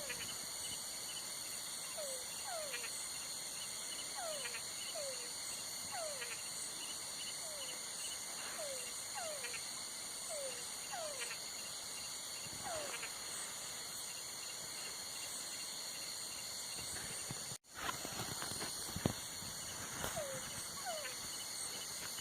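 Night insect chorus with a steady high-pitched trilling, over which an animal repeats short falling calls about once a second. The sound drops out for an instant about 17 seconds in, and a sharp click follows shortly after.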